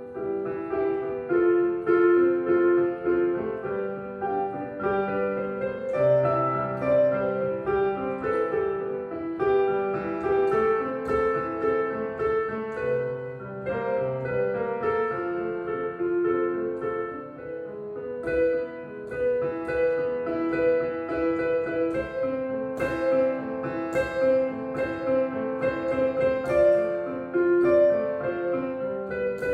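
A street piano being played: a melody over chords, notes struck one after another and left to ring.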